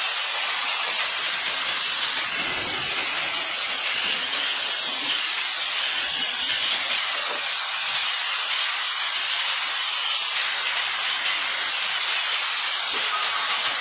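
A steady, loud hiss, like air or water jetting under pressure, that keeps an even level throughout.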